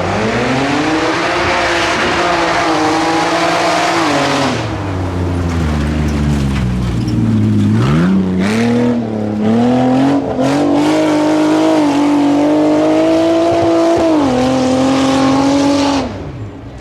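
A modified 4x4 tuff truck's engine revving hard as it launches off the line and runs the obstacle course. The revs climb steeply at the start, sag and surge again about halfway through, and fall away near the end, with a few short clattering crashes in the middle.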